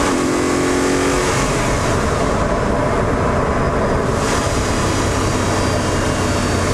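Audi R8's V8 engine running while the car is driven, with road and wind noise. A clear engine note holds for about the first second, then gives way to a steady, even rush.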